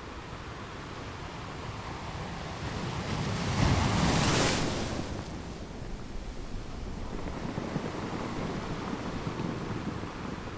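Ocean waves on a shore: one wave builds, breaks with a loud rush about four seconds in, then washes back as a softer hiss.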